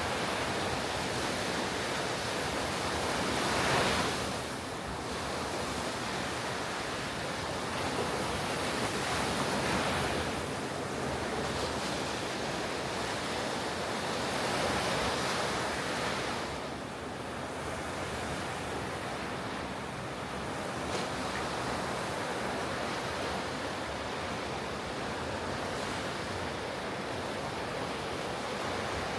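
Ocean surf breaking on a beach in a continuous wash, with louder swells about 4, 10 and 15 seconds in and a lull near 17 seconds. Light wind on the microphone.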